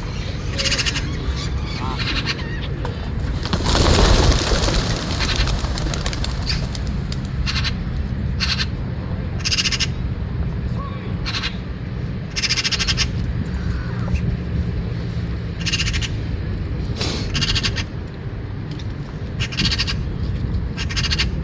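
Birds calling in short, repeated calls every second or two over a steady low rumble, with a louder rushing noise about four seconds in.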